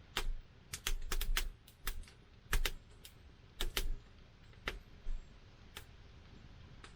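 Wood fire crackling: irregular sharp pops and snaps, bunched in the first few seconds and thinning out toward the end.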